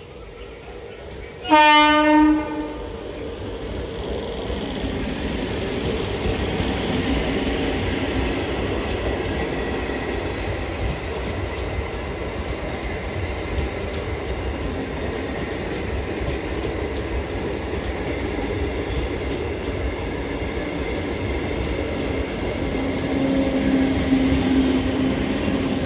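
An Indian Railways MEMU electric multiple unit sounds one short horn blast about two seconds in. Then its coaches run past with a steady rumble of wheels on the rails, growing a little louder near the end, where a steady hum joins as a coach with louvred sides goes by.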